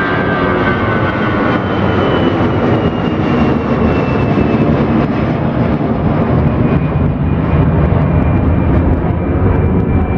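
Jet airliner engines passing close by: a loud, steady rush of engine noise with a high whine that slowly falls in pitch.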